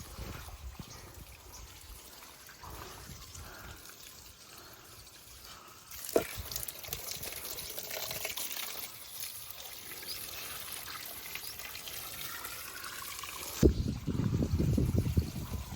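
Water pouring and trickling, starting suddenly about six seconds in. Near the end a sharp knock comes, followed by a louder low rumbling noise.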